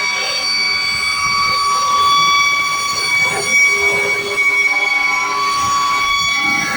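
Several fire trucks sounding their sirens and horns together: a loud, steady, high held tone with other horn tones coming and going over it.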